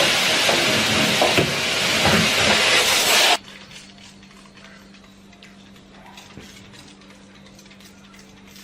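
A loud, steady hissing rush with small knocks in it, which cuts off abruptly about three and a half seconds in. After that there is only a faint steady hum with light clicks.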